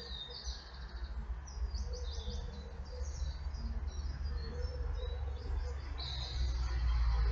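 Songbirds singing, a string of quick high chirps that go on throughout, over a low rumble that grows louder near the end.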